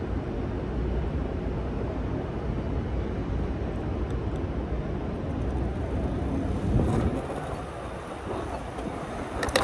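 Wind rushing over the microphone and road noise from fat tires while riding an e-bike, a steady rumble. A few sharp clicks near the end.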